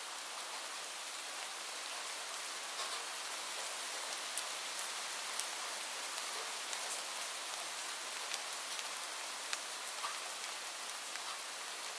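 Steady rain falling on a surface, an even hiss with scattered individual drops ticking sharply.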